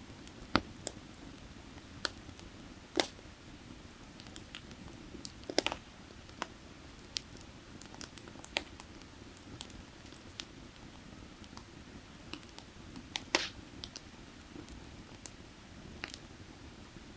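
Burning firewood crackling, with irregular sharp snaps and a few louder pops, over a steady low rush.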